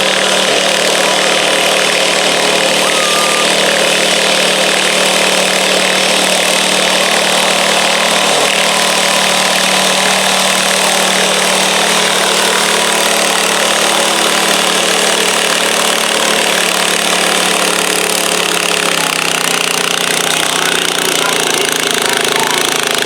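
Loud, steady running of a garden pulling tractor's engine, with a rattly mechanical edge. Its pitch sags a little about 19 seconds in.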